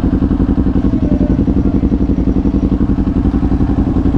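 Kawasaki Ninja 400's parallel-twin engine running steadily at low revs through an SC Project aftermarket exhaust, with an even, fast pulsing beat.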